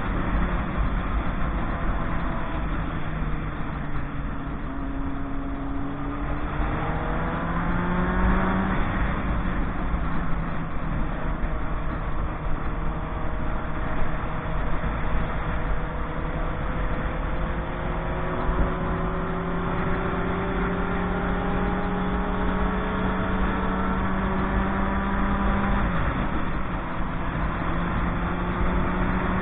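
Motorcycle engine running while being ridden, its pitch climbing about a quarter of the way in, holding fairly steady, then dropping suddenly near the end. A heavy low rumble of wind on the microphone runs underneath.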